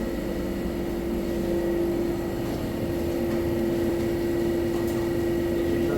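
Steady machine hum with one steady tone that becomes stronger about a second and a half in.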